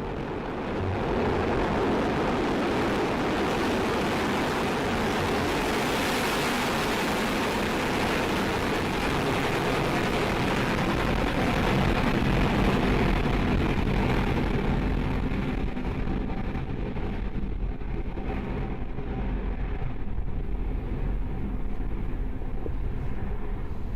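Soyuz rocket engines at liftoff: a loud, steady rushing noise across low and high pitches that thins after about 15 seconds to a low rumble with crackle as the rocket climbs away.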